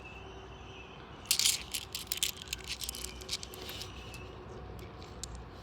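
Australian $2 coins clinking and jingling as they are handled and sorted. About a second in comes a quick burst of metallic clicks, followed by scattered single clinks.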